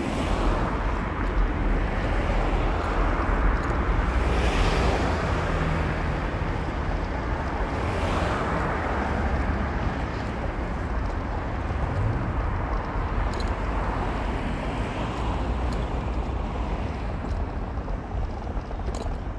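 A car driving on city streets: steady tyre and engine rumble, with the noise swelling briefly about four and eight seconds in.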